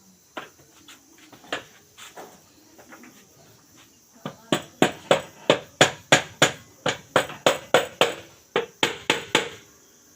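Repeated hammer taps on a motorcycle engine's crankcase casing, knocking the halves together over the crank main bearings: a few spaced taps, then about four seconds in a quick even run of about three to four taps a second.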